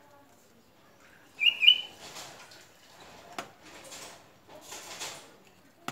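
A bird chirps twice in quick succession about a second and a half in, the loudest sound. It is followed by rustling of orchid leaves and roots being handled, with one sharp knock midway.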